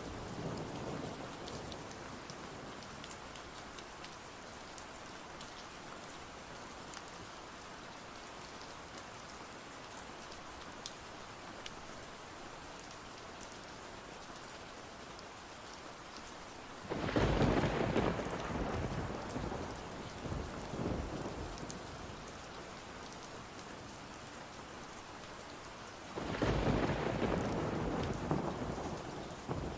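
Steady rain with fine scattered drop ticks, broken twice by a roll of thunder, one about halfway through and one near the end, each starting suddenly and fading over a few seconds.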